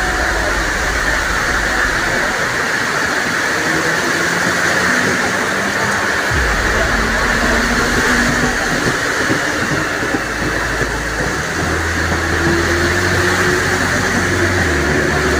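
Electric multiple-unit local train running past on the track, a steady loud rush of wheels and carriages with a low rumble that comes and goes. Steady rain hiss runs under it.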